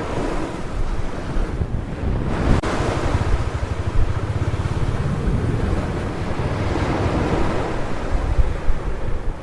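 Ocean surf breaking and washing on a beach, swelling and easing, with wind buffeting the microphone in a low rumble.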